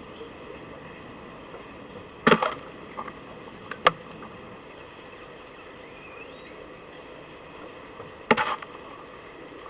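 Sharp knocks at a garden feeder, three in all: one about two seconds in, one a second and a half later, and one near the end. The first and last are each followed by a brief clattering rattle. A faint, short rising bird call comes in between them.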